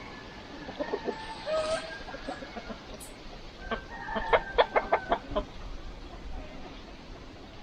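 Chickens clucking, with scattered calls and then a quick run of about ten sharp clucks past the middle.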